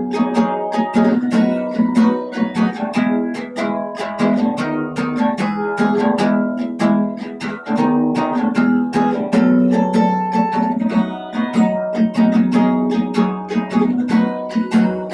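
Acoustic guitar played fast, many plucked notes a second over sustained chords.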